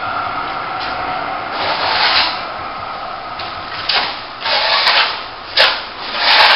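Plastering trowel scraping and spreading wet top-coat plaster over a plasterboard joint. It makes a steady rasping stroke at first, then several separate short sweeps in the second half, the later ones louder.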